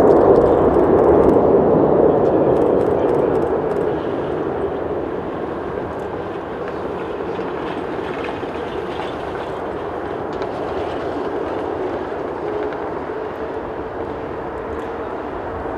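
Jet noise from a Boeing 777-300ER's GE90 turbofans at takeoff thrust: a steady, loud rushing rumble that jumps up at the start, is loudest for the first few seconds, then slowly eases off.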